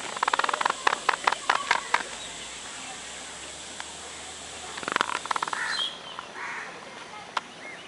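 Harsh, rapidly repeated bird chattering for the first two seconds and again briefly about five seconds in, over a steady hiss.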